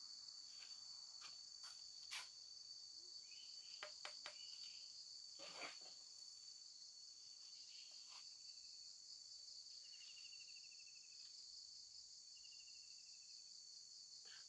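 Faint, steady, shrill chorus of insects, with a few soft clicks and two short descending trills about two-thirds of the way through and near the end.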